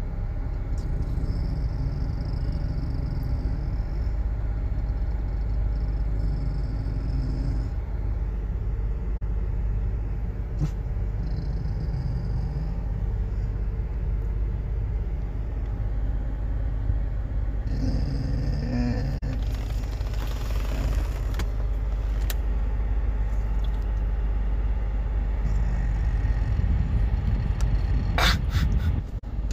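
Cat purring close to the microphone: a steady low rumble that carries on without a break.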